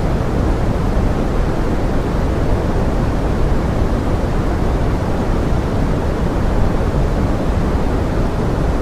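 Steady pink noise with forest rain, an even hiss weighted toward the low end with no separate drops or events standing out.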